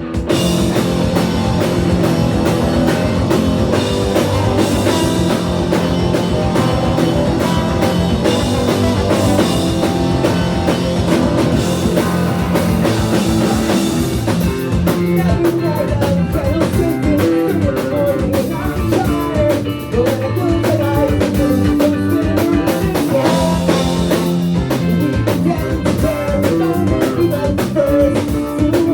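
Ska punk band playing live, with electric guitar and drum kit; a wavering lead melody line comes in about halfway through.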